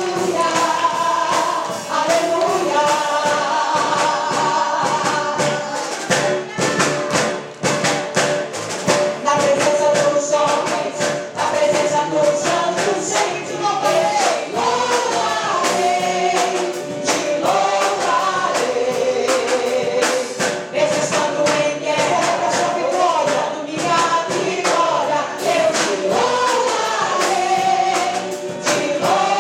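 Upbeat Portuguese-language gospel song: a choir and lead singers over a band with busy percussion.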